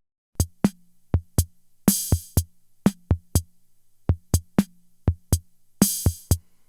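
Music: a drum machine beat playing on its own, with kick drum thumps in groups of two and three and a brighter crashing hit twice.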